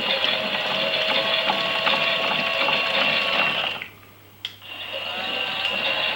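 Small electric motor of a toy Miele washing machine running with a steady high whine, cutting out just before four seconds in and starting again half a second after a click.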